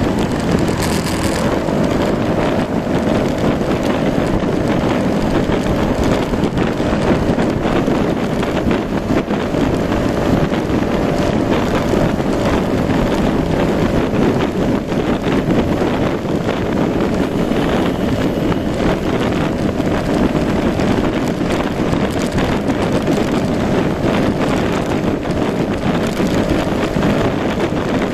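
Yamaha Majesty S 155 (SG28J) scooter underway: its 155 cc single-cylinder engine runs at a steady speed under heavy wind noise on the microphone. The engine note rises slightly about a second in, then holds steady.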